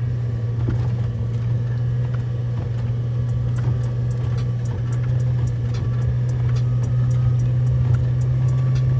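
Jeep Wrangler LJ's 4.0-litre straight-six and drivetrain heard from inside the cab while driving on a snowy road, a steady low drone. Faint quick ticking, about three or four a second, joins in from about three seconds in.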